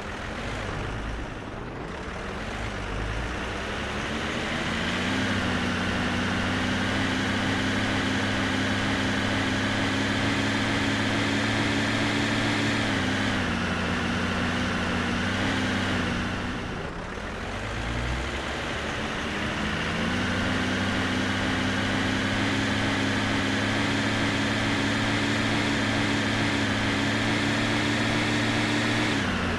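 Truck engine sound that builds up to a steady run, holds, then eases off and dies down about halfway through. It then builds up again to a steady run and eases off once more at the end.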